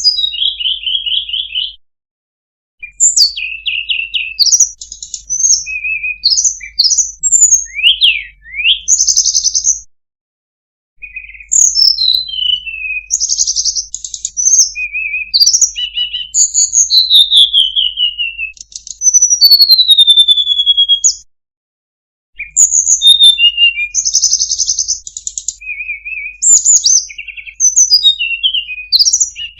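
Tledekan gunung singing: a varied, loud song of rapid high trills and clear down-slurred whistles in quick phrases. The song cuts out to complete silence for about a second three times.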